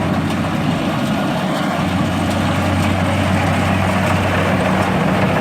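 An engine running steadily at a constant speed, a low even hum that does not change.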